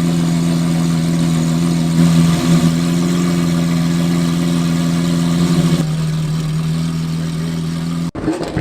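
Car engine running at a steady speed with a constant note, settling to a lower, steady note about six seconds in, then cut off abruptly near the end.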